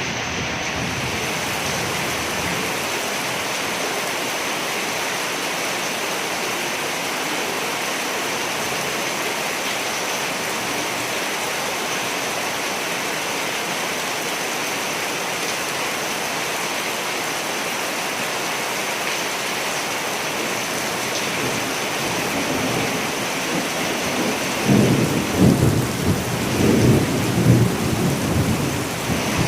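Steady rain falling, an even hiss. Near the end a low rumble of thunder rolls in, louder and uneven.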